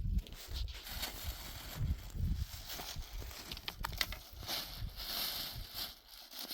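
Outdoor rustling and scattered light clicks over a fluctuating low rumble like wind on the microphone.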